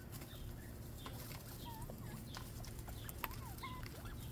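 Small quail giving scattered short, soft chirping calls that bend up and down in pitch, with sharp little clicks as they peck at food, over a low steady background rumble.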